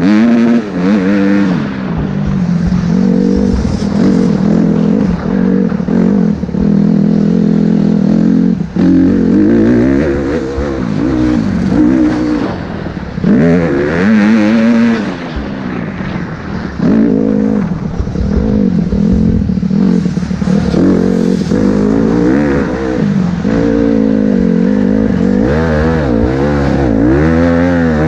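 Motocross dirt bike engine running hard, revving up and down over and over as the throttle is opened and shut.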